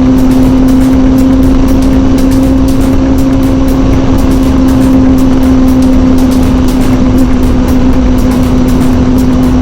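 Kawasaki ZZR600 inline-four engine running at high, steady revs while riding at cruising speed, with a dense low rush of wind noise on the microphone. The engine's pitch holds steady throughout.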